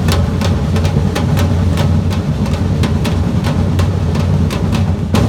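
Samba-reggae drum band playing: deep bass drums rumble under sharp, even strikes at about three a second.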